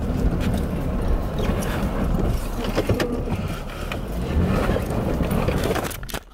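A Jeep's engine and drivetrain running under power as it pushes through snow, heard from inside the cabin. It is a steady low rumble with a few knocks and rattles, and it cuts off suddenly near the end.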